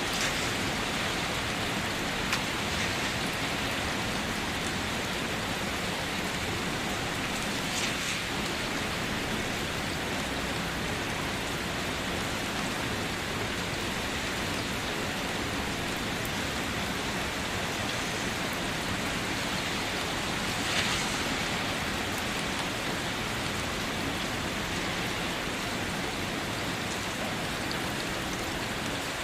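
Steady rain falling, an even hiss with scattered heavier drops, a couple of them standing out briefly about 8 and 21 seconds in.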